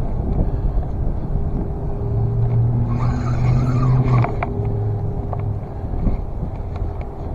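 Strong wind buffeting the microphone in a dense, steady low rumble. A steady hum runs under it and grows louder for about two seconds near the middle, with a few faint ticks.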